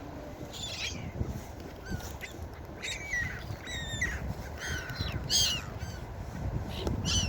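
Gulls calling, a string of short arching cries, the loudest about five seconds in, over a steady low rumble.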